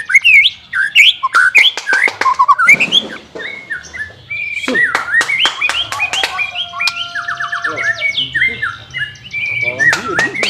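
White-rumped shama (murai batu) singing: a fast, varied song of sweeping whistles, sharp clicking notes and rapid repeated trills.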